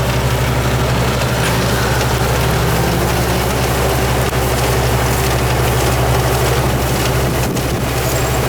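Engine of a Yanmar farm machine running steadily at constant speed, a continuous low hum.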